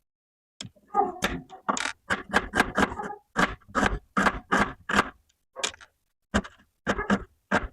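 Kitchen utensils knocking and clattering in a quick, uneven series of sharp hits, about three to four a second, with short pauses between runs.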